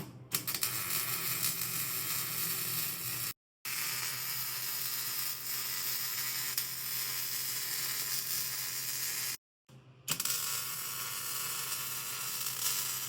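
Welding arc crackling and sizzling steadily while a splice on a steel traction bar is welded, in three long runs broken by two abrupt cuts to silence.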